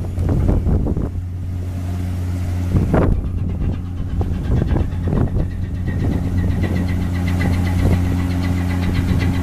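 Large engine running steadily with a deep, even hum, joined about six seconds in by a higher whine, with a few short knocks over it.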